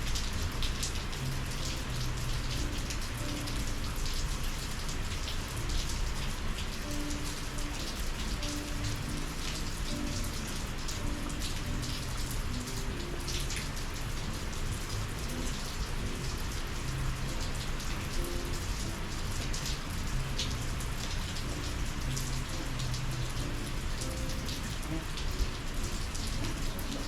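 Steady summer rain falling, many separate drop hits ticking over an even hiss.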